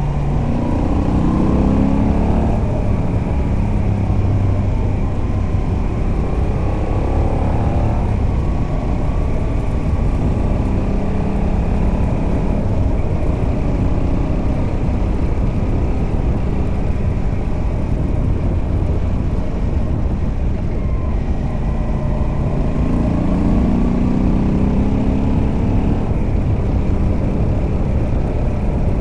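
Moto Guzzi V85TT's air-cooled transverse V-twin running on the road through its stock exhaust with a Mistral decat pipe. The engine note rises under acceleration about a second in, again around seven seconds, and again a little past twenty seconds, over a steady rush of wind noise.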